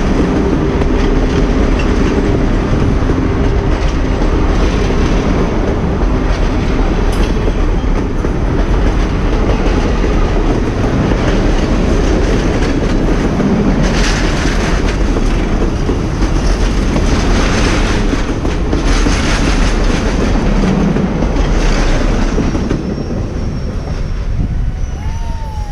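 Union Pacific 'Big Boy' steam excursion train rolling steadily past, its wheels clicking over the rail joints. A squealing tone runs through the first several seconds, and the sound eases slightly near the end.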